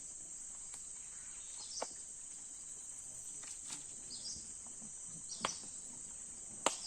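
Steady, high-pitched insect chorus, with a few sharp clicks and short high chirps over it; the loudest click comes near the end.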